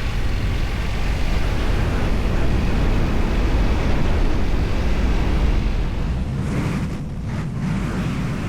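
Riding motorcycle: wind rushing over the microphone over a steady rumble of engine and road noise, easing briefly about seven seconds in.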